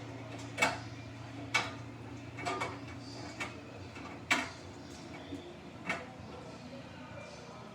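Samsung washing machine running with a steady low hum while sharp knocks come from inside it about once a second, dying away after about six seconds. The load, a single jacket, is too light and out of balance.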